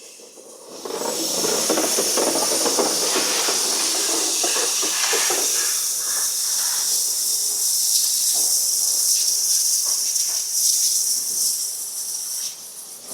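Steam locomotive venting steam: a loud, steady hiss starting about a second in, its lower rushing part dying away around halfway while the high hiss carries on, then dropping near the end.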